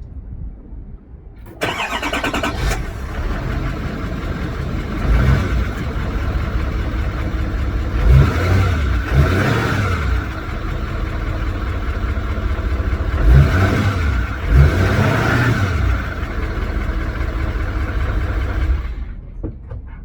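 GMC Sierra 3500HD's 6.6-litre turbodiesel V8 cranking and starting about a second and a half in, then idling. It is revved up and back down twice, around eight and again around thirteen seconds in, and shuts off near the end.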